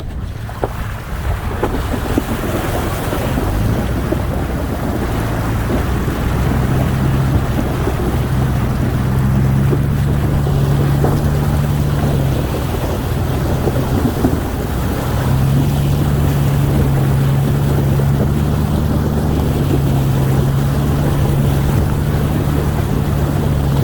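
Vehicle engine running while driving a rough dirt trail, with steady tyre and road noise. The engine hum strengthens about six seconds in, fades around twelve seconds in and comes back a few seconds later.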